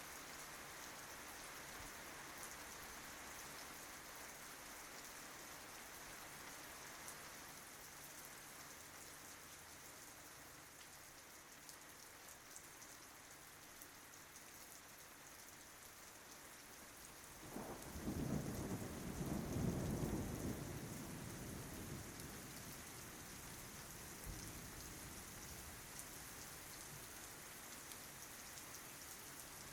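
Steady rain falling. About two-thirds of the way in, a deep rumble of thunder swells for a few seconds, the loudest sound here, then fades back under the rain.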